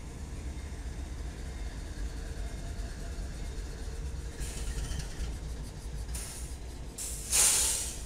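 Low, steady rumble of a train on the tracks, heard from a trackside camera microphone. About seven seconds in, a loud hiss or whoosh lasts about a second.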